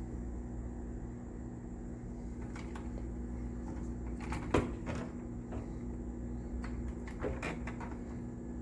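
A few light clicks and knocks of hands handling wiring and tools, the sharpest about halfway through and two more near the end, over a steady low hum.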